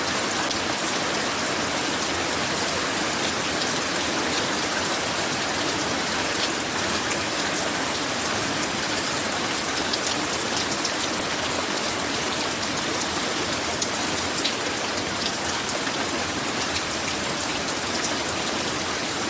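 Light rain falling steadily: an even hiss with scattered ticks of single drops.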